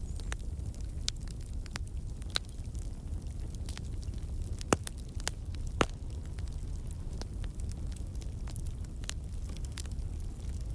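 Wood campfire crackling: scattered sharp pops and snaps over a low, steady rumble of the flames, with two louder pops about halfway through. The snaps come from water and sap in the logs turning to steam and escaping.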